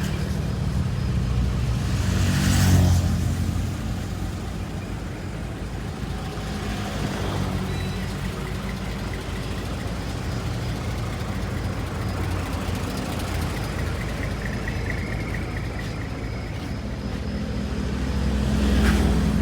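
Heavy truck engine running steadily, swelling louder twice: about two and a half seconds in and near the end.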